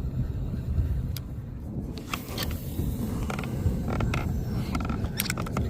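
Irregular creaking and a few sharp clicks from the fishing kayak and its gear, over a steady low rumble.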